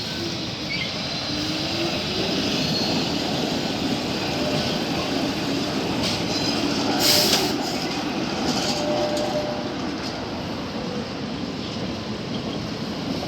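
Tram moving through a tram terminal, a steady rolling rumble of steel wheels on rails that grows louder after a couple of seconds. A brief high-pitched screech about seven seconds in is the loudest moment.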